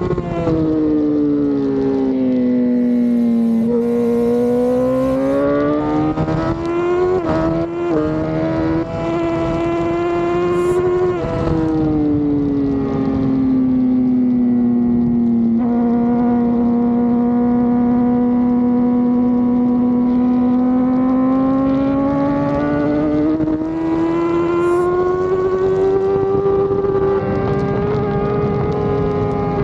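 Racing motorcycle engine heard onboard at speed around a track. Its note falls and rises smoothly with throttle and speed, dips briefly twice, and holds a long steady pitch through the middle, under constant wind rush.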